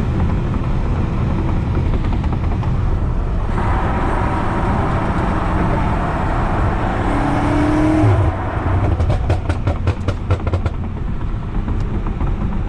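BMW F90 M5 Competition's twin-turbo V8 and loud exhaust while driving: a steady rumble that swells as the car pulls harder about a third of the way in, then drops off sharply with a quick run of exhaust crackles and pops.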